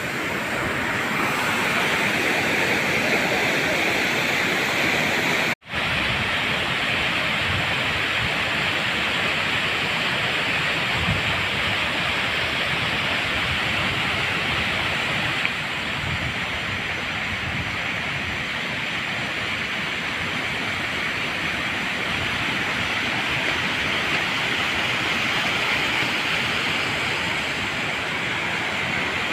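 Waterfall: a steady rush of falling water. The sound drops out for an instant about five and a half seconds in.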